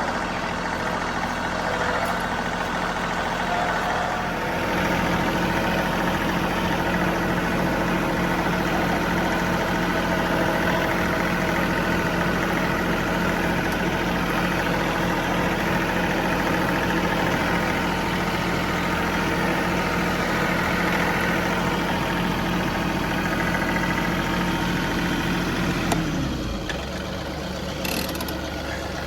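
John Deere 3038E compact tractor's three-cylinder diesel engine running steadily, picking up a little about four seconds in and dropping in speed near the end.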